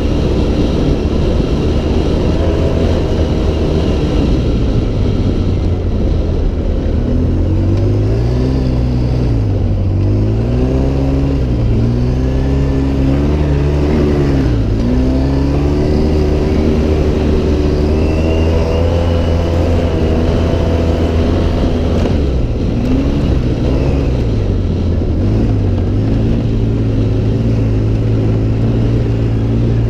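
Off-road vehicle engine running hard, its pitch climbing and dropping again and again as it accelerates and backs off, then holding steady for the last few seconds.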